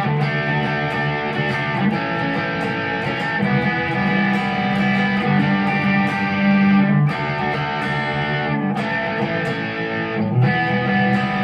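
Squier electric guitar played through an M-VAVE MK-300 multi-effects pedal preset, with sustained chords ringing out and the chord changing every few seconds.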